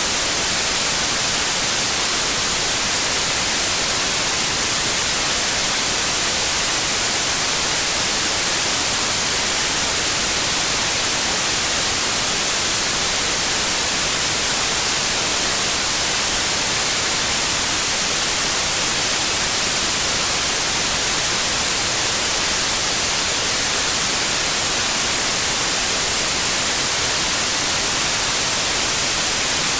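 Steady white noise: an even, unbroken hiss, brightest in the high frequencies, with no changes in volume.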